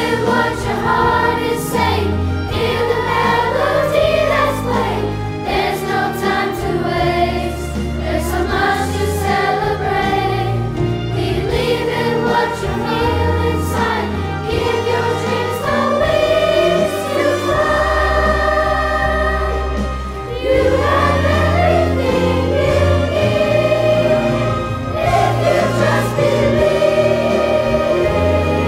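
A chorus singing held chords with instrumental accompaniment under a steady low bass line, the voices dropping back briefly and coming in again about two-thirds of the way through.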